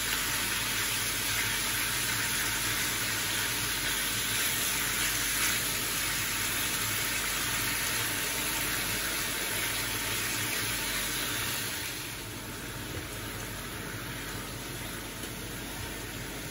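Pork belly, onion and shrimp paste sizzling in a hot frying pan while being stirred with a silicone spatula. The sizzle drops noticeably about twelve seconds in.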